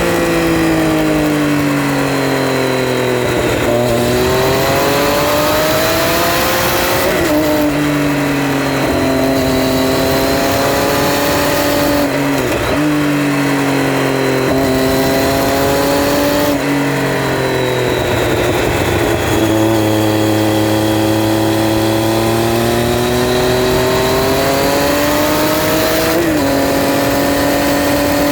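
Triumph Street Triple R's 675 cc inline-three engine under way, its note sinking slowly as the revs drop and climbing twice under acceleration. It jumps up sharply in pitch a few times, as at gear changes, over a steady rush of wind.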